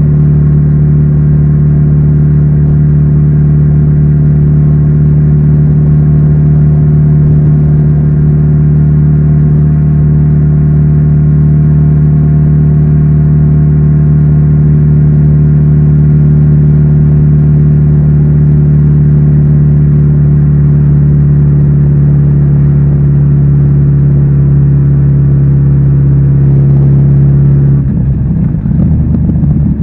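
Kawasaki Z900RS inline-four engine through its stock exhaust, running at a steady engine speed with an even, unchanging note. About two seconds before the end the sound briefly breaks up and dips, then settles back to the same note.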